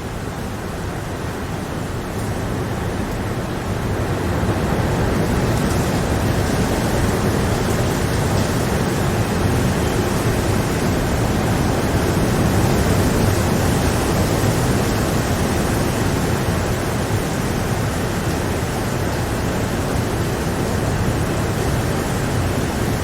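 Steady rain falling, a dense even hiss that grows louder about four seconds in and then holds.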